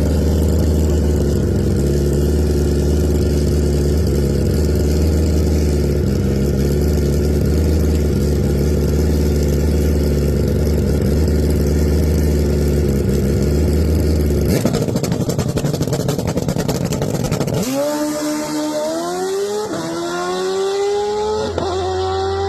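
Drag-race motorcycle engine running steadily at a low pitch. About fifteen seconds in it breaks into a rough crackling burst, then from about eighteen seconds it revs up in rising sweeps, each climb broken by a short drop, as if shifting up through the gears under hard acceleration.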